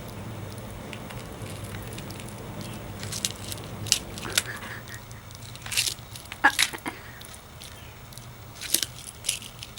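An Argentine black and white tegu eating an egg: sharp, separate crunches and clicks of its jaws on the egg, starting about three seconds in and coming irregularly.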